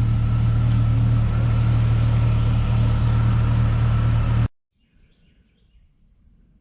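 The 1998 Jeep Cherokee XJ's 4.0 straight-six running steadily at idle with a strong low hum while it purges air from the refilled cooling system. The sound cuts off suddenly about four and a half seconds in, leaving faint bird chirps.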